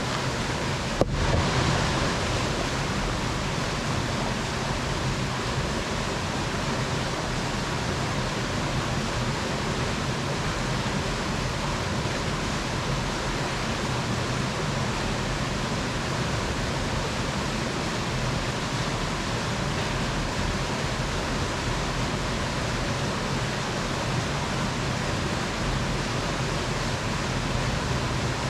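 Steady rushing of flowing water, with one brief click about a second in.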